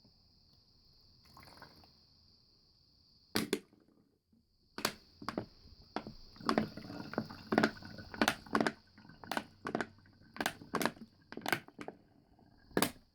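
Bottle sounds: a run of short, sharp hits with a faint ring, irregular at about two a second, beginning a few seconds in after a single hit.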